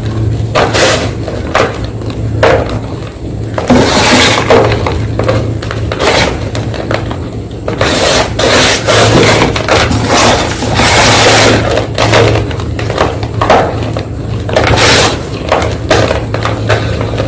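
White gym chalk being crushed and crumbled, a run of irregular crunches and scraping rubs of varying length. A low steady hum runs underneath.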